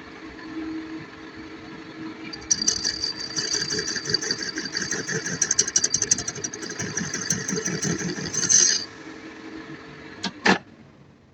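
A workshop machine running with a steady hum. From about two and a half seconds in, a harsh crackling noise goes on for about six seconds and then stops. Two sharp clicks follow near the end.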